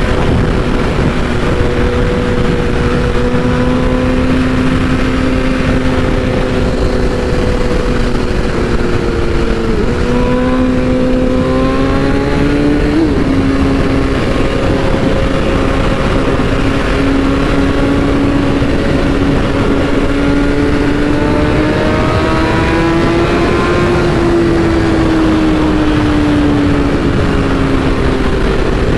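BMW S1000RR's inline-four engine running at a steady cruise, its pitch dipping briefly about ten seconds in, then climbing slowly and falling again near the end, over a steady rush of wind noise.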